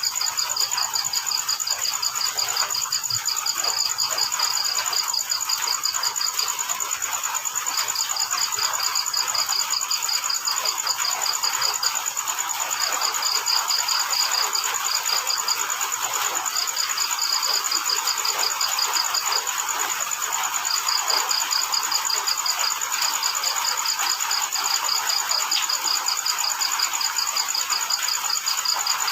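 Crickets at night with rain falling: one cricket trills without a break while another chirps in runs of rapid pulses separated by short pauses, over the steady hiss of rain.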